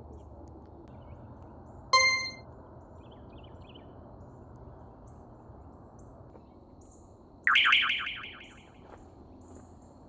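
Outdoor field ambience with a loud rolling bird call of about a second and a half, starting about seven and a half seconds in, and faint high chirps. About two seconds in there is one short, bright ringing tone that dies away quickly.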